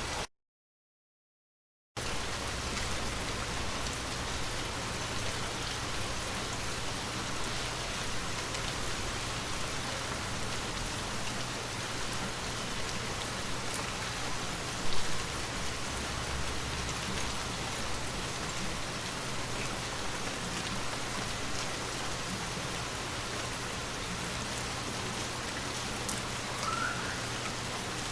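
Steady rain falling and pattering on surfaces, with a single louder sharp tap about halfway through. The sound cuts out completely for nearly two seconds just after the start.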